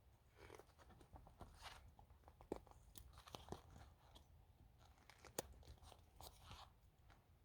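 Faint crunching and scattered small clicks, with two sharper clicks about two and a half and five and a half seconds in.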